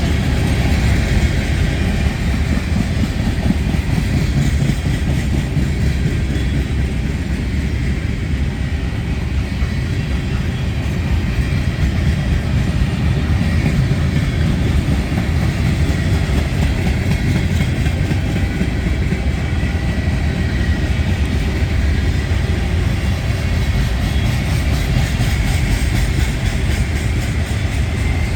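Freight train cars rolling past, with a steady, loud rumble of steel wheels on the rails.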